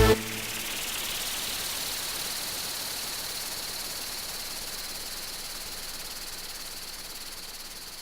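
A steady high hiss that slowly fades away.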